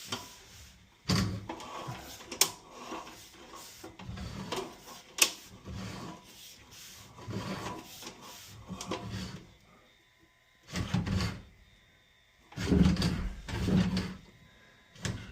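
Sewer inspection camera and its push cable being worked through the drain line: irregular rubbing and scraping with sharp clicks and knocks, and a few louder bursts near the end.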